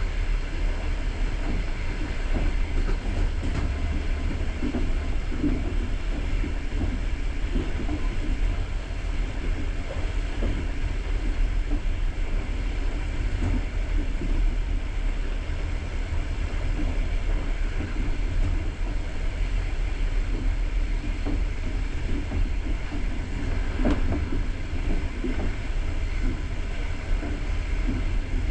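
Steady low rumble of a passenger train carriage running along the track, heard from inside the carriage, with a faint wheel knock about 24 seconds in.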